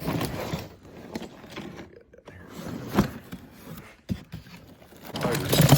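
A box holding old diecast toy cars being handled and turned over, with scraping and knocking. There are sharp clicks about three and four seconds in, and louder rustling near the end.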